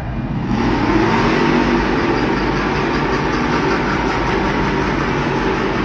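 A vehicle engine revving up sharply about half a second in, then running hard and loud.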